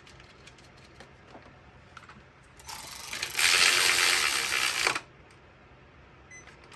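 Ratchet wrench clicking rapidly for about two seconds, a fast dense rattle that cuts off suddenly, with a few light tool clicks before it.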